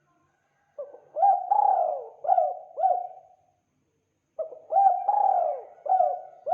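Spotted dove (tekukur) cooing: two phrases of about five coos each, separated by a pause of about a second.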